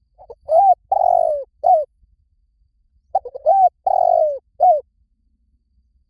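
Spotted dove cooing: two phrases about three seconds apart. Each is a few quick short notes, then a longer drawn-out coo that falls in pitch at its end, then one short closing note.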